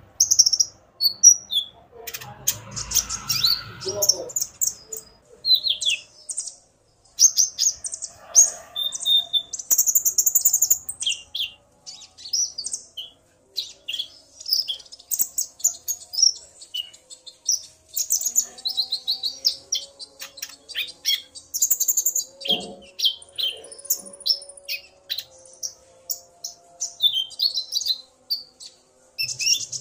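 Konin (kolibri ninja) sunbirds singing and calling: a fast, continuous run of high, thin chirps and twitters. This is the male's excited song in answer to a female's calls. A short low rustling sound comes about two to four seconds in.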